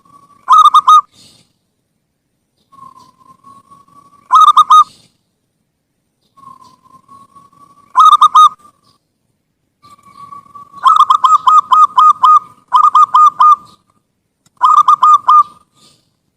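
Zebra dove (perkutut) singing: each phrase is a soft drawn-out coo followed by a quick run of loud, clipped coos. The phrases repeat every few seconds, with a longer run of rapid notes a little past the middle.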